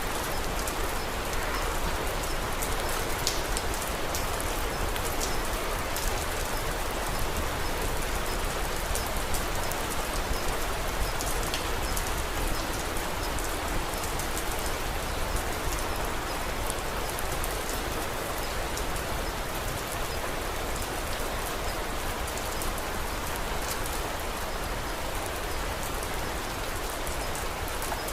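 Steady rain falling, with scattered light ticks of individual drops.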